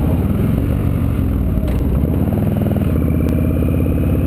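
Victory V92C motorcycle's V-twin engine running at low road speed, its pitch shifting about two seconds in.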